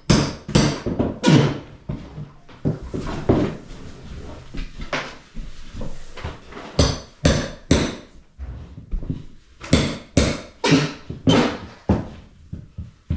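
Hammer blows, a dozen or so sharp strikes at an irregular pace with a short pause midway.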